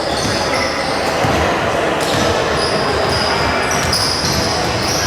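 Basketball game sound in a gym hall: the ball bouncing and many short high squeaks from players' shoes on the court, over the murmur of the crowd.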